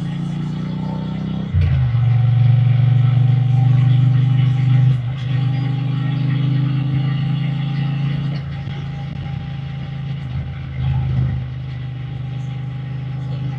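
Triumph Bonneville T120's 1200 cc parallel-twin engine and exhaust running under way. The throttle opens with a sudden step up in loudness about a second and a half in, and the engine runs a little quieter and less evenly in the second half.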